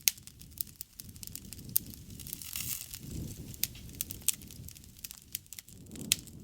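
Wood fire crackling, with irregular sharp pops over a low rumble of burning.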